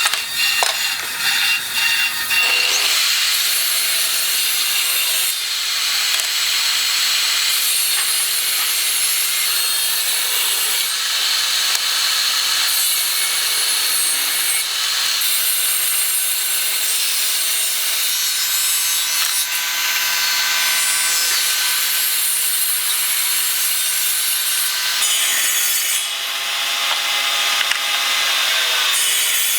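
Wood being sawn: a continuous, steady rasping with its sound mostly in the upper range.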